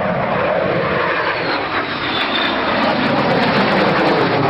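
Aircraft engine noise from a display aircraft flying past: a loud, steady rush that falls slightly in pitch in the first second.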